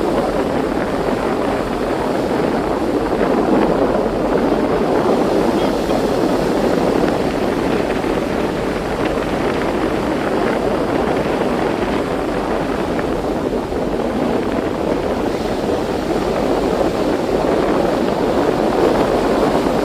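Steady rushing of sea water and wind heard from aboard a moving boat, an even wash of noise with no distinct strokes.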